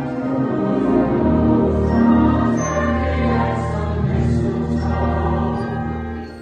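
A choir singing over sustained accompaniment with a strong bass line, fading away near the end.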